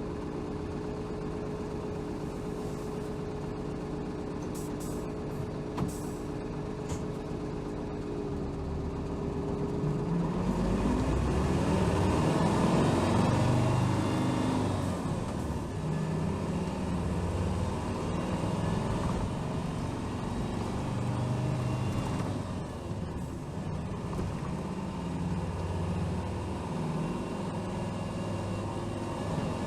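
Diesel engine of a 2007 Hino Rainbow HR (BDG-HR7JPBE) city bus idling steadily, then pulling away about ten seconds in, its pitch rising as it accelerates before it runs on under load.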